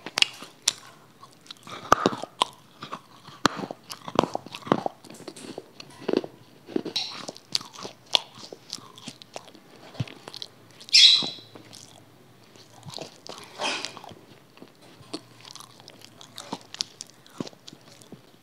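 Close-miked biting and chewing of something crunchy, with sharp crunches at irregular intervals; the loudest crunch comes about eleven seconds in.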